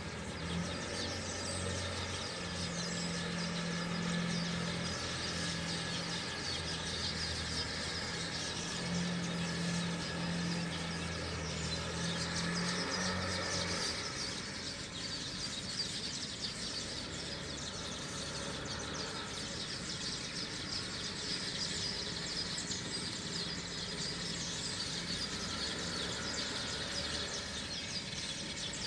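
Many birds calling and chirping together in a morning chorus, with high chirps overlapping throughout. A low, steady mechanical hum sits under the birdsong for about the first half and stops about halfway through.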